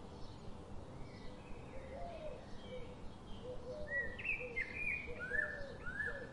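Birds chirping: a string of short rising-and-falling calls, some high and some lower, busiest about four to five seconds in, over a steady faint background noise.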